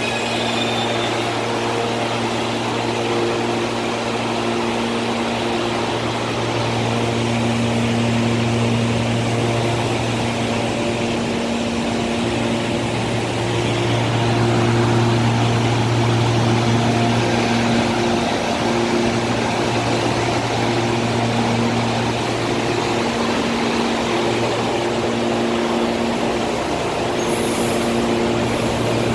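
Electric commuter train giving out a steady electrical hum, a low drone with even overtones over a noisy rumble, with a short high hiss near the end.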